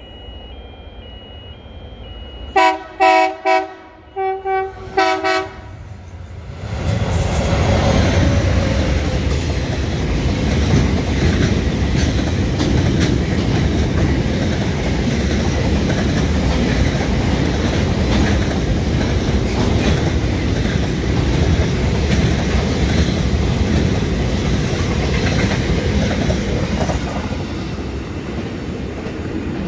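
A train horn sounds a quick series of short blasts, then the train passes close by, a loud continuous rumble with wheel clatter that eases slightly near the end.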